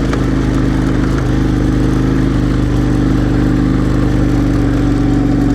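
KTM 1090 Adventure R's V-twin engine running at a steady pace on a motorcycle, with no change in revs.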